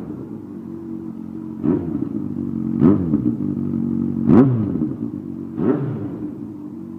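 2002 Yamaha R1 inline-four engine through a MIVV Cone aftermarket silencer, idling and blipped four times. Each rev jumps up sharply and falls back to idle, and the third blip is the loudest.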